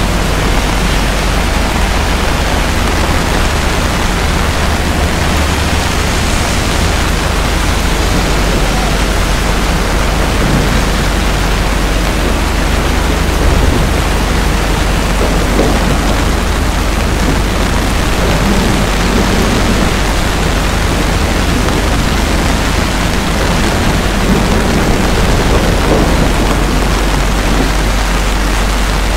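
Heavy rain falling on wet city pavement: a loud, steady, dense hiss with a steady low rumble underneath.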